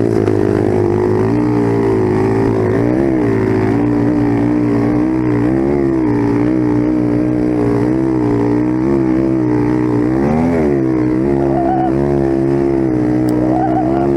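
Dirt bike engine running while ridden, its pitch rising and falling continually with the throttle, with sharper revs about three and ten seconds in.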